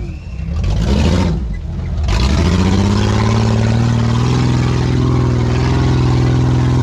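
Jeep engine revved hard on a steep muddy hill climb: the revs rise and drop sharply a couple of times, then hold at a steady high pitch, stepping up a little about four seconds in.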